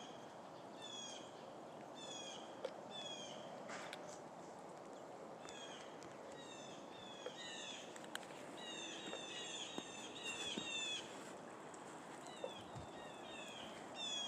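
Small songbirds chirping: many short, repeated, falling chirps, coming thickest about two-thirds of the way through, over a steady outdoor background hiss.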